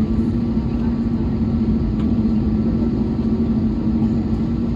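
Steady low drone with a constant hum inside the cabin of an Airbus A321neo on the ground before takeoff.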